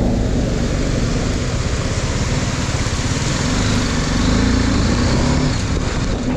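Riding a motorcycle in a storm: heavy wind rumble on the microphone and a loud wet hiss of rain or hail and road spray, with the motorcycle's engine running underneath. The hiss eases near the end.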